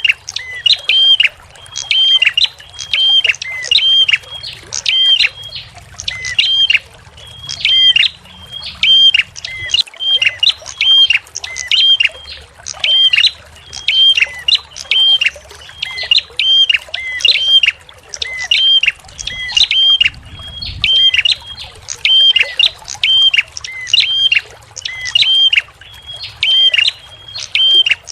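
A small songbird giving sharp, high, hooked call notes over and over in quick clusters, a couple of notes each second, the fast chattering 'tembakan' phrases used in bird-training recordings. Trickling water runs faintly underneath.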